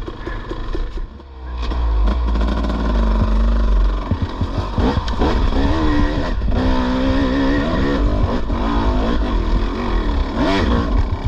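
Dirt bike engine revving under load as the bike is ridden at an obstacle, its pitch rising and falling with the throttle. It eases off briefly about a second in, then runs loud.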